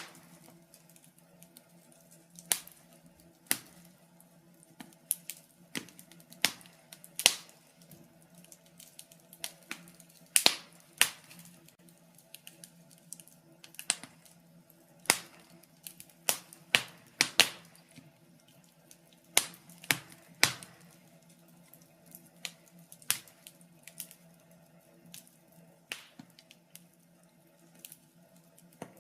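Wood fire crackling, with irregular sharp pops and snaps scattered through, some in quick clusters, over a faint steady low hum.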